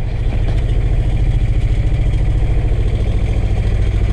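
Small boat engine running steadily at low speed, with a fast, even pulse.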